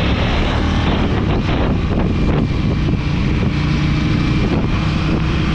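KTM motorcycle engine running steadily at cruising speed, with wind noise buffeting the microphone.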